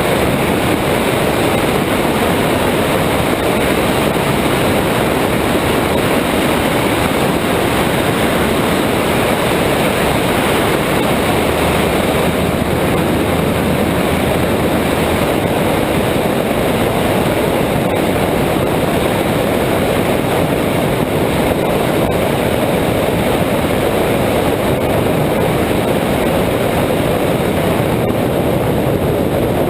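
Cessna 172's piston engine and propeller running steadily, under a constant rush of wind noise.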